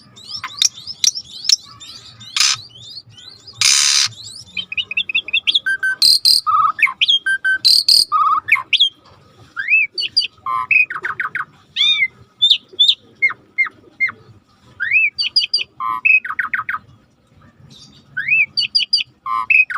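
Starling singing a busy, varied song: quick chirps, short rising whistles and fast trills, with two harsh, noisy calls in the first four seconds.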